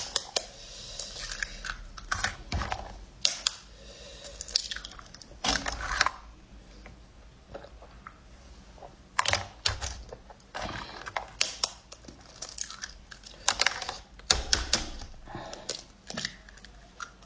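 Close-miked eating sounds: chewing with irregular wet mouth clicks and smacks, in clusters with short pauses between.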